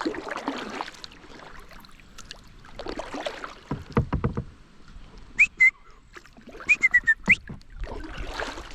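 Kayak paddle strokes swishing through the river water, three of them a few seconds apart. In the middle come several short, high whistled chirps that rise and then drop, typical of a bird.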